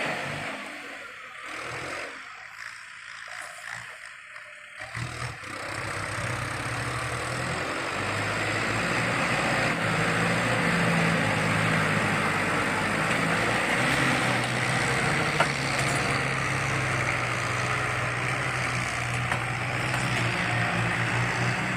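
Kubota farm tractor's diesel engine running steadily, quieter and uneven for the first few seconds, then a steady, even engine note from about five seconds in.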